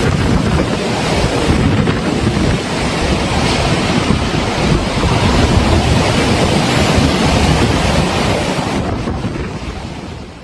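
Storm-force wind buffeting the microphone over heavy surf crashing on the coast, a dense steady rush with a deep rumble. It fades away near the end.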